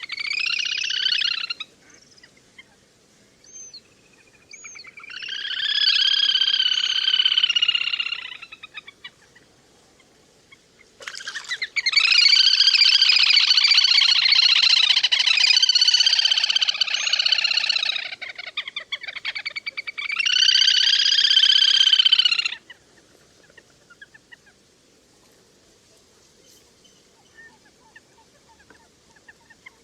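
Le le hôi (whistling duck) calling in loud bursts of high, pitched calls, the kind of flock-calling recording used to draw a flock. There are four bursts separated by quiet gaps; the longest runs about seven seconds from about eleven seconds in.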